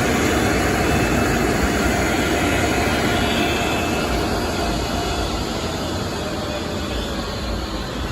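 Car wash tunnel machinery running: a steady, loud rushing noise of the kind made by dryer blowers and spray equipment, which gradually fades.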